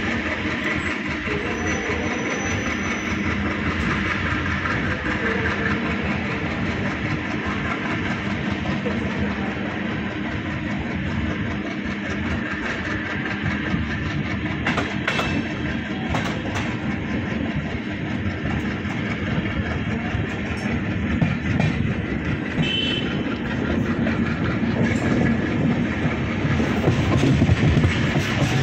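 Passenger train running on the track: the steady rumble and rattle of the coach, with a couple of sharper knocks about halfway through, growing a little louder near the end.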